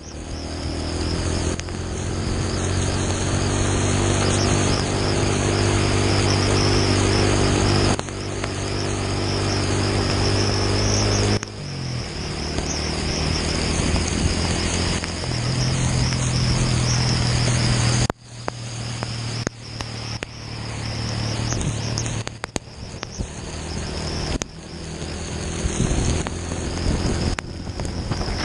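Motorcycle engine running at a steady speed in heavy rain, over a dense hiss of rain and running water, with a thin high wavering whine above it. The sound changes abruptly several times, about a third of the way in, near the middle and about two thirds of the way in.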